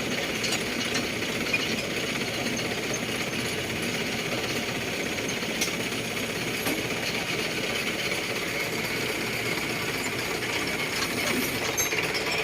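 Engine of a utility crane truck running steadily, a continuous mechanical rattle.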